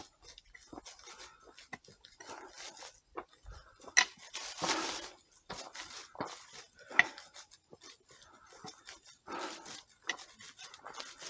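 Footsteps and gear rustle on a mountain trail: irregular scuffs and rubs, with a sharp click about four seconds in followed by a longer scuff, and another sharp click about seven seconds in.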